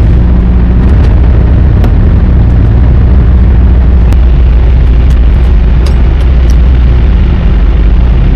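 Semi-truck diesel engine idling with a loud, steady low rumble, with a few light ticks over it.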